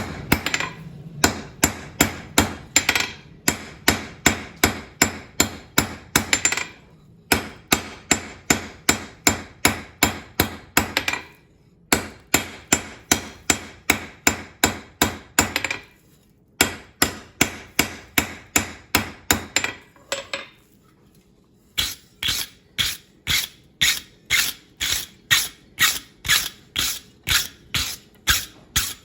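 Blacksmith's hand hammer striking hot steel on an anvil in steady runs of about three blows a second, with short pauses between runs, while the end of a forged wrench handle is chamfered. The blows in the last run ring brighter.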